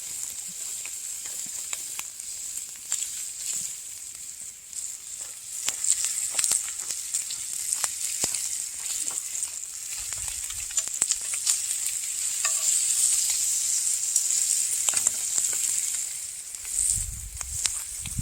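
Bacon sizzling in a cast iron pan over an open fire: a steady high hiss with frequent sharp pops and crackles of spitting fat, growing louder about six seconds in.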